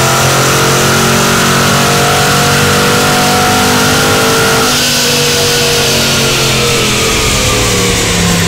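Mercedes C63 AMG with a Capristo exhaust accelerating hard, its engine note climbing steadily. The pitch drops suddenly about halfway through, then climbs again.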